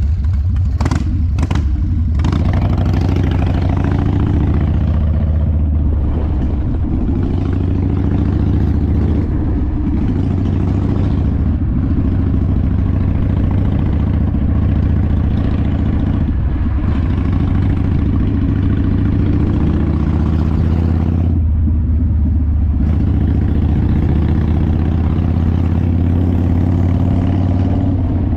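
Harley-Davidson V-twin motorcycle engine running under way, its pitch shifting up and down with the throttle. A few sharp knocks sound in the first couple of seconds.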